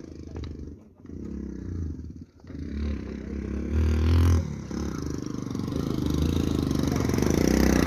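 Motorcycle engine running unevenly, with a couple of brief drops early on, then growing louder and steadier in the second half.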